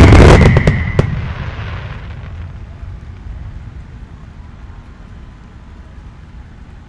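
Aerial firework shells bursting, several sharp bangs in quick succession within the first second. Their rumbling echo then fades away slowly.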